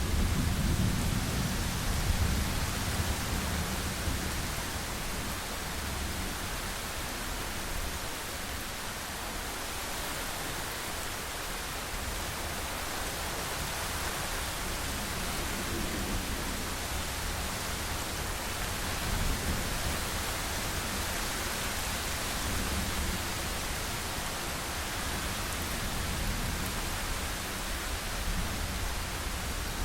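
Steady rain hiss, with a low rumble of thunder dying away over the first few seconds.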